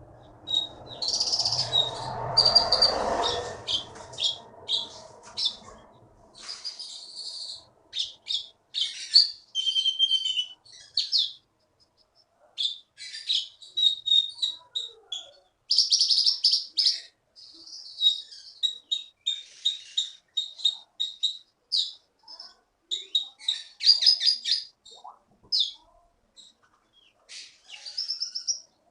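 A konin songbird singing vigorously: rapid, high-pitched chirps, trills and repeated notes in quick bursts with short pauses. A rushing noise lies under the song for the first few seconds.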